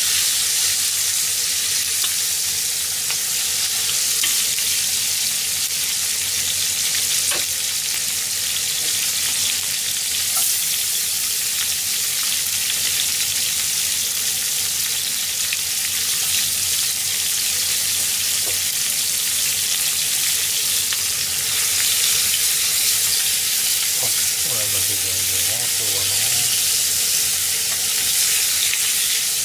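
Chicken wings and chopped onion sizzling steadily in a hot frying pan, with a few light taps as chopsticks turn the pieces.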